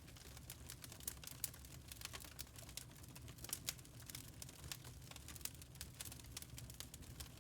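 Wood fire crackling in a fireplace: irregular sharp pops and snaps, several a second.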